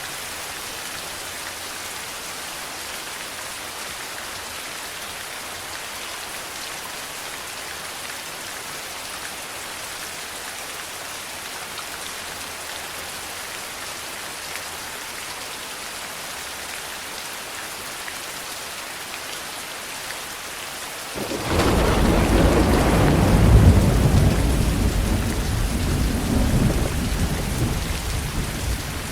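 Steady heavy rain hissing, then about two-thirds of the way through a loud thunderclap breaks in suddenly and rolls on as a deep rumble that slowly dies away.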